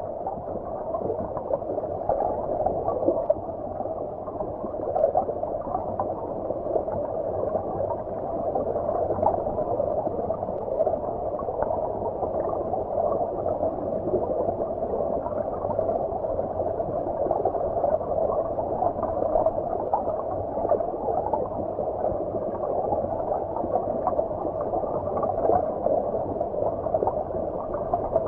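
Flowing stream water heard from underwater: a steady, muffled gurgling rush with no high sounds, only small flickers of bubbling.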